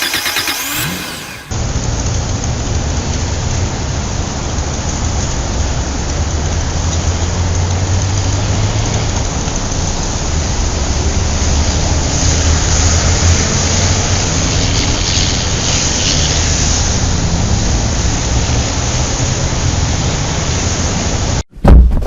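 Steady vehicle engine noise: a low drone under a hiss that holds level for about twenty seconds, then cuts off suddenly near the end.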